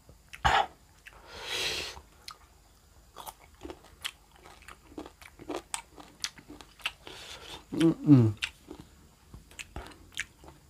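Close-up biting and chewing of crunchy raw sour mango, with many short crisp crunches. About eight seconds in, the eater makes a short hum that falls in pitch.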